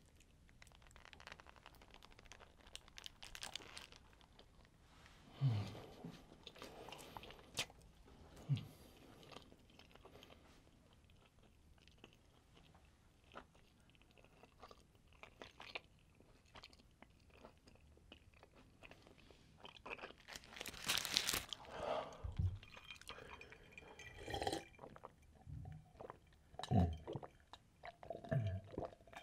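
Close-miked chewing of a McDonald's cheeseburger, soft wet mouth sounds with occasional crunches. A brief louder noise comes about two-thirds of the way through, and there are a few low gulps near the end as she drinks cola from a glass mug.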